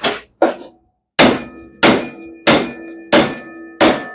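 Hammer blows on metal while fitting a motorcycle's front wheel, most likely tapping the axle home. A few quick knocks, then a steady run of five strikes about two-thirds of a second apart, each leaving a short metallic ring.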